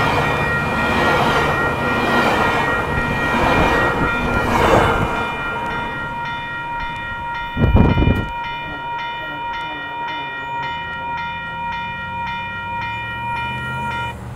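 Metrolink bilevel passenger cars rolling past on the rails, the rumble fading as the train pulls away. A grade-crossing bell rings about twice a second and cuts off near the end as the crossing clears. There is a brief loud thump a little past halfway.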